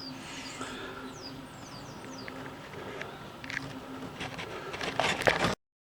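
Small garden birds giving a quick run of short, high, downward-sliding chirps in the first second or so, over a faint steady hum. A few clicks come near the end, then the sound cuts off.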